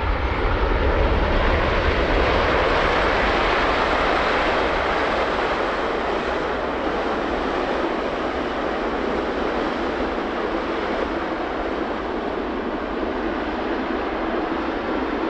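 Jet engine noise from a landing Boeing 777-200LR with GE90 engines: a loud, broad rush that swells over the first few seconds and then slowly fades.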